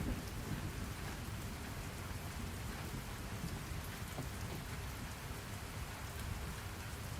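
Steady rain ambience, an even hiss of rainfall with a low rumble underneath.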